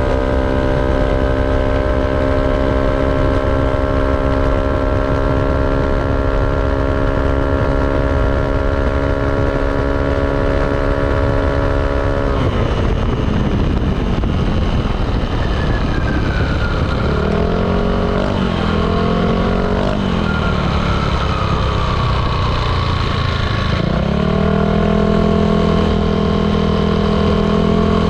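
Yamaha Aerox 155 scooter's single-cylinder engine through an ROB1 aftermarket exhaust, heard while riding. The drone holds steady for about twelve seconds, then falls away and rises and falls a few times as the throttle changes. It holds steady again and drops near the end, all over a constant low rumble.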